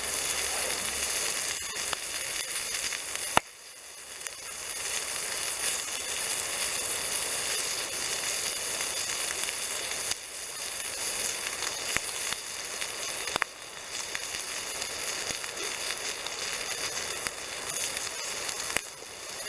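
Bacon and sausages sizzling steadily in a frying pan over a campfire, with a few sharp crackles.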